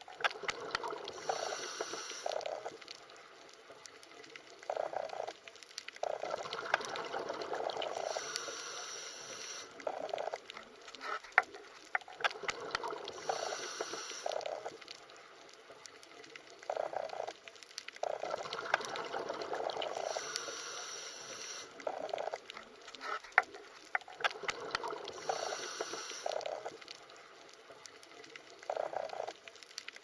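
Underwater water sounds: bubbling and gurgling with scattered sharp clicks, swelling and fading in a cycle that repeats about every six seconds.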